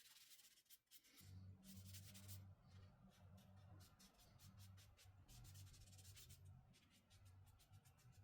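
Faint, quick scratchy strokes of a hand tool or sandpaper working wood, repeating several times a second, with a low hum coming in about a second in.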